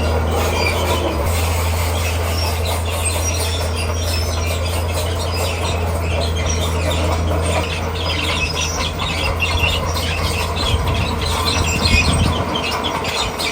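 Komatsu D41P crawler bulldozer's diesel engine running steadily under work, with squeaking and clatter from its steel tracks and the rock, and a louder knock about twelve seconds in.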